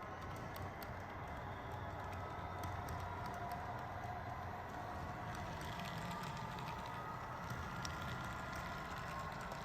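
HO scale model train running along the track: a steady whine and hum with scattered light clicks of wheels over the rail joints.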